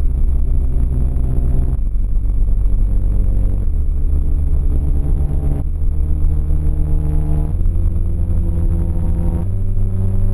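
Loud, low, distorted droning tones that hold steady and jump to a new pitch about every two seconds, like a slowed-down, deep-pitched sequence of notes.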